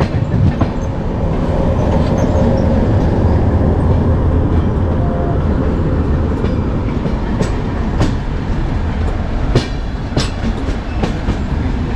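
Yesvantpur–Delhi Sarai Rohilla Duronto Express running on the rails: a steady low rumble with scattered sharp wheel clicks over rail joints, more of them in the second half.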